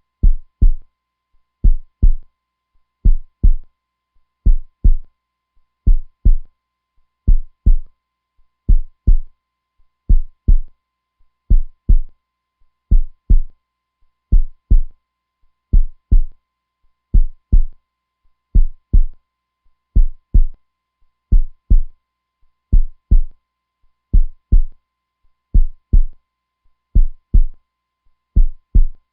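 Heartbeat sound: a steady, slow lub-dub, each beat a pair of low thumps close together, repeating about every second and a half.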